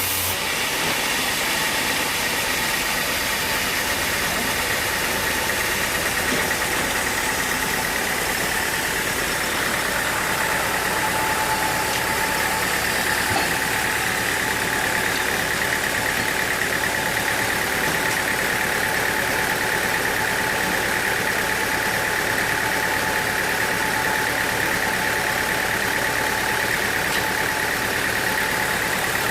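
Sawmill machinery running steadily: an engine-like drone with a steady high whine that grows stronger about a third of the way in.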